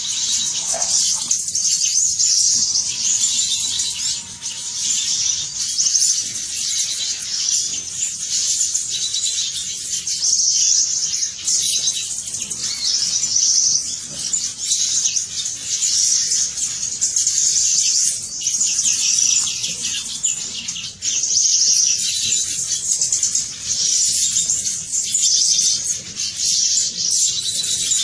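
Many small birds chirping: dense, rapid high-pitched twittering that swells and eases every two to three seconds.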